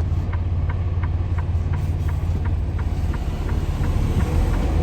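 Truck cab: the diesel engine runs with a steady low drone while the turn signal clicks about three times a second. About four seconds in the engine note rises as the truck pulls up the driveway.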